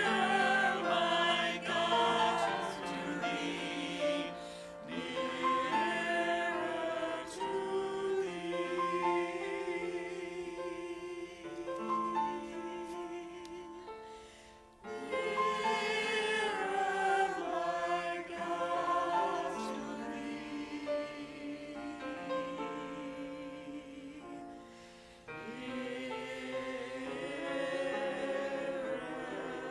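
Voices singing a hymn together over sustained accompaniment, in phrases with short pauses about 15 and 25 seconds in.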